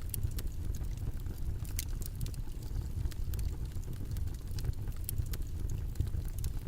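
Steady, low, rumbling background noise with scattered faint crackles and clicks over it.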